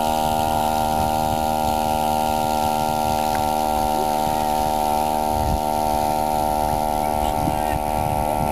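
Small 1 hp outboard boat motor running steadily, its pitch unchanging.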